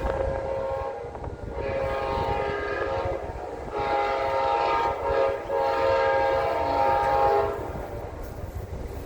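Locomotive air horn sounding a series of long blasts, the last held about two seconds and ending about 7.5 seconds in, over the low rumble of the passing train.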